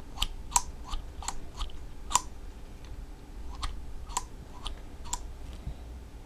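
About ten light, sharp clicks at irregular intervals: small metal brake parts and hand tools being handled during a master cylinder rebuild, just after the snap ring is seated.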